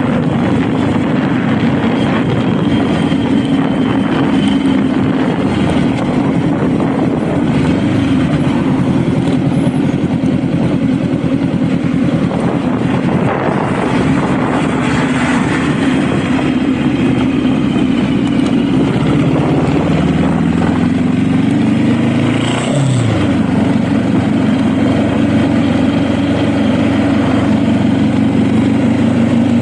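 Honda Rebel motorcycle engine running steadily under way. About twenty seconds in, its pitch falls as the bike slows, then the engine steadies again.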